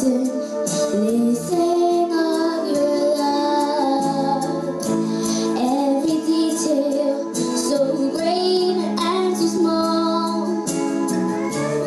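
A song with a woman's singing voice over accompaniment, the voice carrying a melody that moves up and down in held notes.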